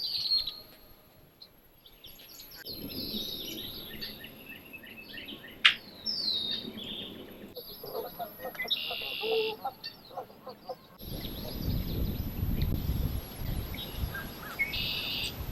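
Several birds chirping and trilling in repeated short high phrases, broken into sections with abrupt changes between them. A single sharp click comes about six seconds in, and a low rumbling noise runs under the birds in the last few seconds.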